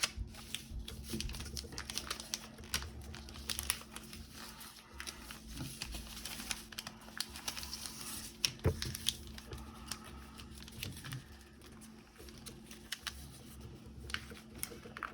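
A sheet of paper being folded and creased by hand: irregular crinkling and rustling with small crackles as the folds are pressed down.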